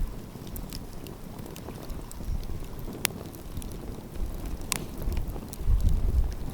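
Wood fire crackling, with a few sharp pops, the loudest about three seconds in and again a second and a half later. Low gusts of wind buffet the microphone near the end.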